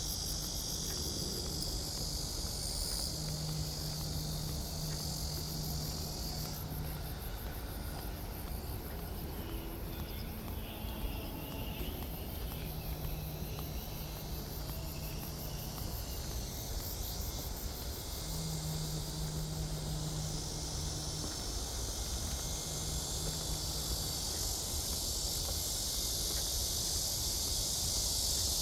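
Insects chirring in a steady high-pitched drone that breaks off about a quarter of the way in and builds back up through the second half, over a low rumble and an on-and-off low hum.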